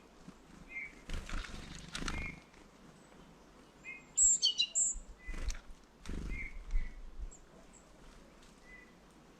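Small songbirds at a bird feeder: short high chirps repeat every second or so, with a louder, sharper run of high calls about four seconds in. Wing flutters and knocks against the feeder come around the first two seconds and again after six.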